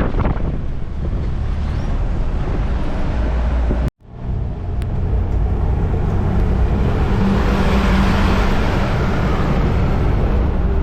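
A vehicle driving on the road: steady engine and road rumble with wind noise. The sound cuts out abruptly about four seconds in and comes back up, then swells and eases again in the second half.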